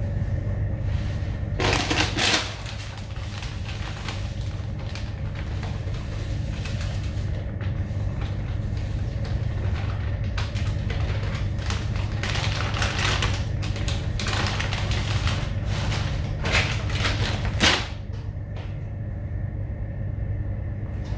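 Steady low machinery hum with irregular clattering and knocks, as in a ship's laundry room where machines are being handled. The loudest clatters come about two seconds in and just before eighteen seconds, after which the clatter thins out.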